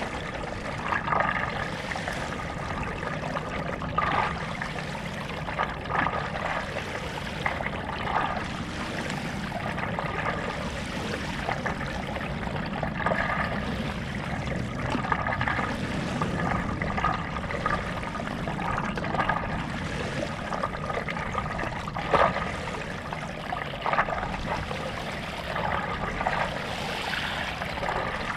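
Stand-up paddleboard paddle strokes: the blade dips and pulls through lake water with a splash and trickle about every two seconds, over steady water noise.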